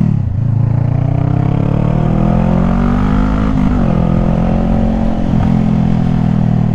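Honda CBR500R's parallel-twin engine pulling through the gears. The revs dip at a shift right at the start, climb for about three seconds, dip again at a second upshift, then hold steady at a cruise.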